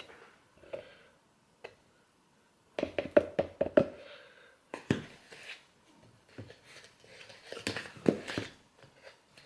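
Knocks, taps and clatter of kitchen containers being handled while drink ingredients are added to a bowl, in a quick cluster about three seconds in and again near the end.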